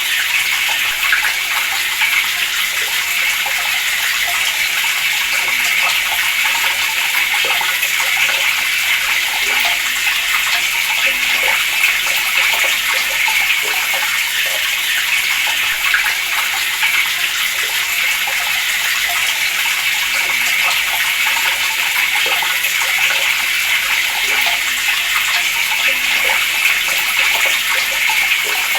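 Water running steadily from a tap and splashing, an unbroken hissing flow at constant strength.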